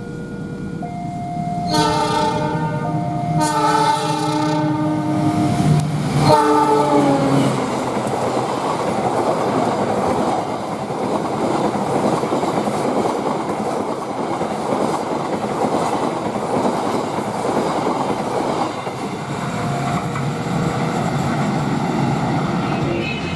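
Passing train's horn sounding two long multi-tone blasts, its pitch dropping as the locomotive goes by about six seconds in. This is followed by the steady rumble and clatter of the train's wheels passing.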